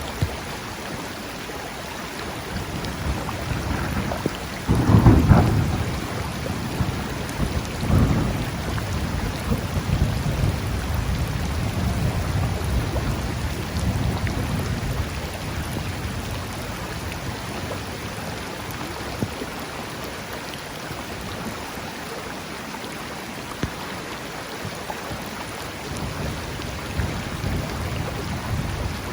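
Thunderstorm over a river: a steady hiss of rain and rushing water, with a loud clap of thunder about five seconds in that rolls on as a low rumble for several seconds, and a fainter rumble near the end.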